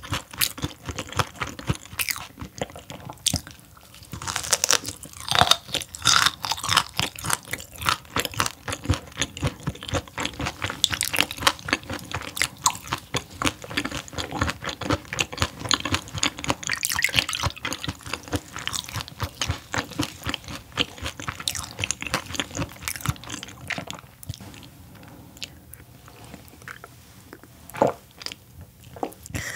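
Close-up crunchy chewing of raw gizzard shad eaten whole, its small bones crackling between the teeth in dense, rapid clicks. The chewing thins out over the last few seconds.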